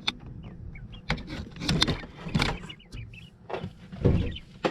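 Irregular rustling, scraping and knocking from handling a bird brooder bedded with pine wood chips, in short noisy bursts, the loudest about four seconds in.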